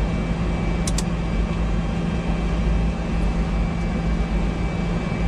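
Steady flight-deck noise of a Boeing 747-200 on the ground: a constant low hum and rushing air from the running engines and air conditioning. Two quick sharp clicks come about a second in.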